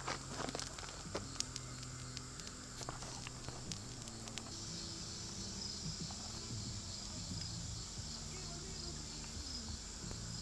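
Quiet outdoor ambience with scattered sharp clicks in the first couple of seconds. From about four and a half seconds in, a steady high insect trill joins, over a faint low hum.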